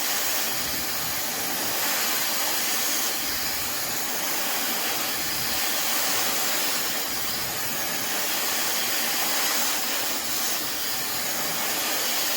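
Fentgo high-speed brushless hair dryer running on its level 2 setting, a steady airy hiss. It is slightly louder than the lower setting and rises and falls a little as it is moved about the hair.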